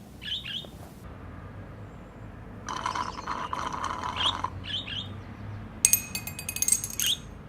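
Pet budgie chirping in short, high calls several times, with rustling and clinking sounds in between.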